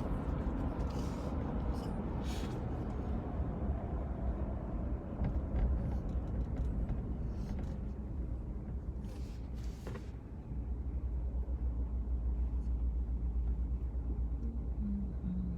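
Steady road and engine rumble of a car being driven, heard from inside the cabin, the low rumble growing louder about two-thirds of the way through, with a few faint clicks.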